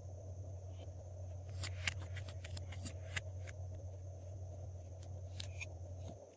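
Glossy slime being pressed and worked by hand, giving a cluster of sharp little clicks and pops from about one and a half to three and a half seconds in and a few more near the end, over a steady low hum.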